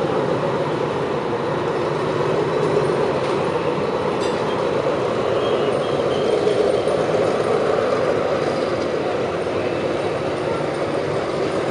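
A diesel-hauled passenger train rolling along the rails with a steady rumble. A faint, brief high squeal comes about halfway.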